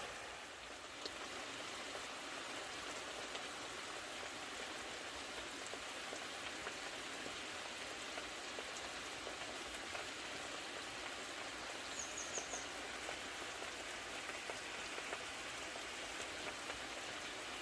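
Mountain stream water rushing steadily over rocks. About twelve seconds in come a few quick high chirps.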